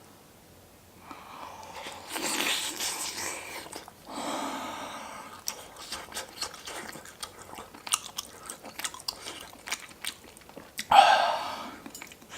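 Close-miked eating of pork-bone hangover soup: chewing with rapid wet smacking clicks. Longer noisy drawn sounds come near the start, and a loud one comes near the end.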